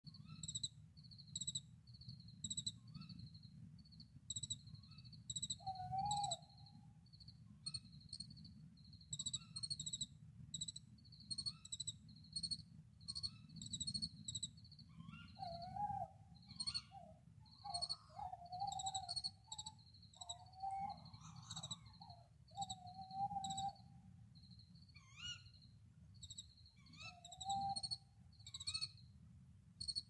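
Bird calls: short high chirps repeated again and again, joined from about fifteen seconds in by lower calls in quick runs.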